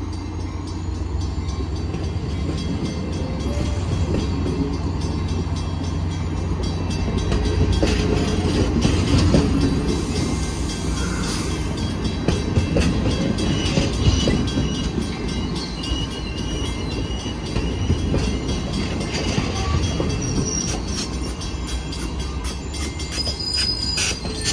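Caltrain commuter train's bilevel passenger cars rolling past, a steady rumble of steel wheels on rail, with thin high wheel squeals in the second half.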